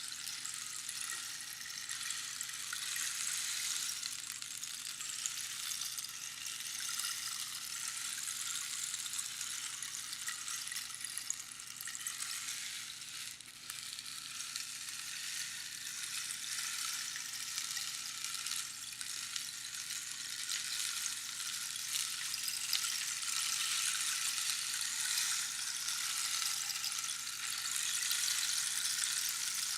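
Rainstick: small pebbles trickling down through the pins inside the tube, a dense high hiss like falling rain that swells and eases, with a short dip in the flow about halfway through.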